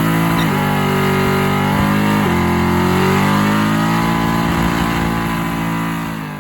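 A V8 car engine under hard acceleration, its note dropping sharply twice, about half a second and just over two seconds in, as gears change, then climbing steadily again before it fades away near the end.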